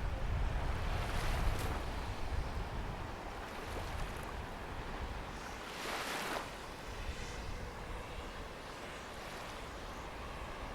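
Small waves washing onto a sandy beach, with two swells of hissing wash about one and six seconds in. A low rumble fades out over the first few seconds.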